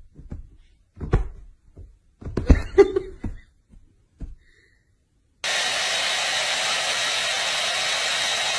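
A few short knocks and thumps, then, about five seconds in, a loud steady rushing motor noise with a faint high whine starts abruptly and keeps going.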